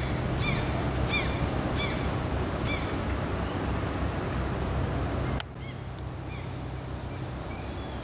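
A bird calling repeatedly, short high chirps about every half-second to second, over a steady low outdoor rumble. About five seconds in the sound drops abruptly and the chirps carry on more faintly.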